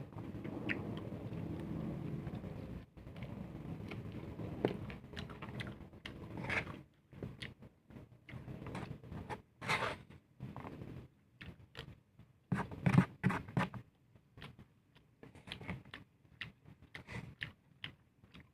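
Close-up eating sounds of a person chewing a spicy bopis meal with rice: many short wet smacks and clicks, with a louder cluster past the middle. A steady low hum sits under the first several seconds and then stops.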